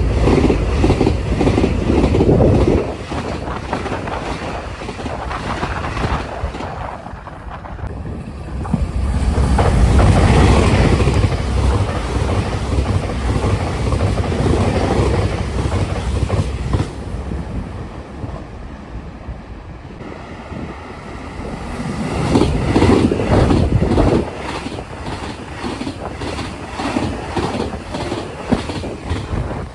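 Electric express trains passing at high speed, around 125–130 km/h, in a series of separate passes. Each pass is a loud rushing noise with a rhythmic clatter of wheels over rail joints, with wind buffeting the microphone.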